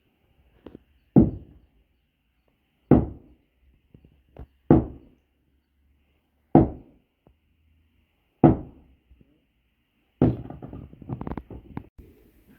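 Heavy hammer blows during demolition: six separate strikes, about one every two seconds, each ringing briefly. About ten seconds in they give way to a couple of seconds of rapid clattering knocks.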